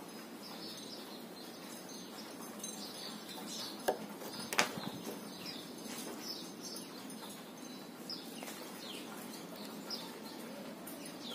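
Birds chirping repeatedly, short high calls that each fall in pitch, over a faint steady background hum. Two sharp knocks about four seconds in.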